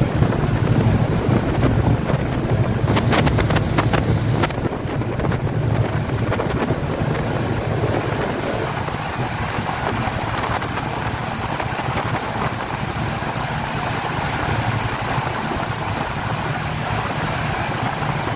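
Speedboat engine running steadily under way, with wind buffeting the microphone and water rushing past the hull. A few short clicks or knocks sound about three to four seconds in.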